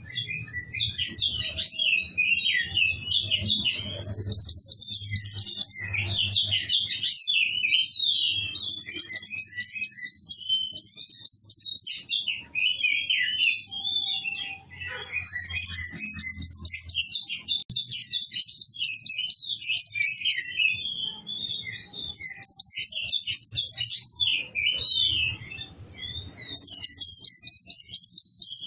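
A kowul songbird singing continuously and vigorously. Fast, high, rattling trills of a second or two alternate with runs of quick, varied chirps.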